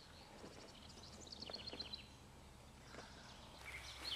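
Faint songbird chirping: a quick run of short, high notes about a second and a half in, over quiet woodland background.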